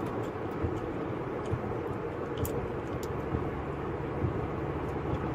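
Steady vehicle running noise, a low even rumble with a few faint clicks.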